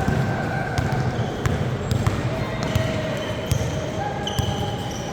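Basketball game play in a gym: the ball bouncing on the court with repeated thumps and sharp knocks, over a background of voices in the hall.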